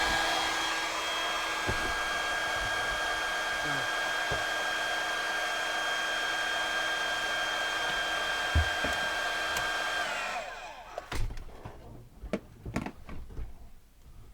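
450-watt hair dryer running steadily with a motor whine. About ten seconds in it is switched off and the whine slides down as the motor spins down, followed by a few clicks and knocks.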